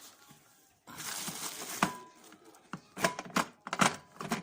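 Packaging being handled while unpacking: a brief plastic rustle, then a sharp click with a short ring and a run of irregular clicks and knocks of hard parts.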